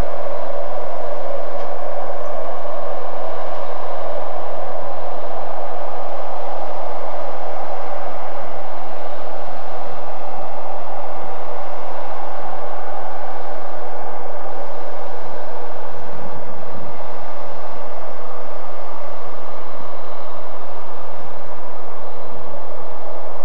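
Freight train hauled by a New Zealand EF-class electric locomotive: a steady train hum with a faint steady whine running through it, and a brief low rumble about two-thirds of the way through.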